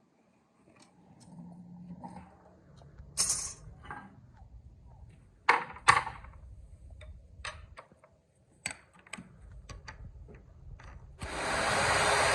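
Workshop handling sounds: scattered clicks and metal knocks, a few sharper clanks among them. About eleven seconds in, a loud, steady motor noise of a power tool or blower starts and keeps running.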